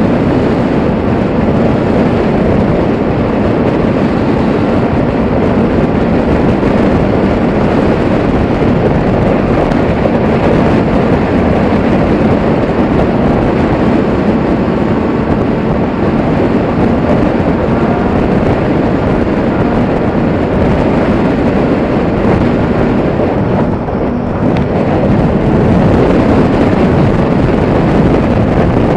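Motorcycle ride with heavy wind noise buffeting the microphone and the engine running steadily beneath it, dipping briefly about five seconds before the end.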